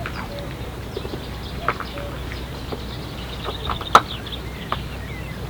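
Wetland ambience: a steady low rumble of wind on the microphone, with birds giving scattered short calls and a single sharp click about four seconds in.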